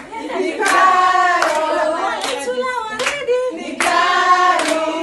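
A group of voices singing together, with hand claps keeping a steady beat of a little more than one clap a second.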